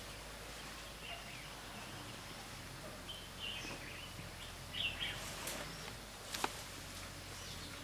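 Quiet outdoor ambience with a few short bird chirps, and a single sharp snap about six seconds in.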